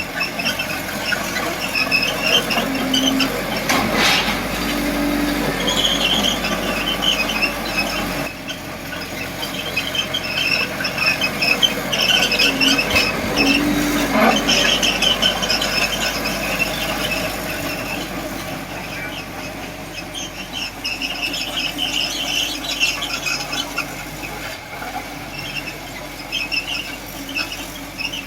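Miniature bulldozer at work: its small drive motors run with a steady mechanical noise under repeated short, high-pitched squeals from the running gear, with a couple of sharp clicks.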